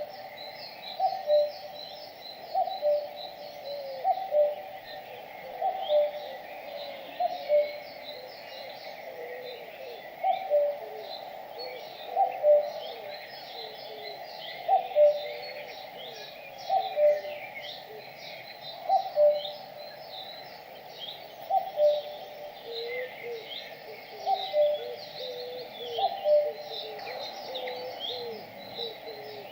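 Birds singing: a low two-note call, the second note lower, repeated about every two seconds, over steady high twittering from other birds.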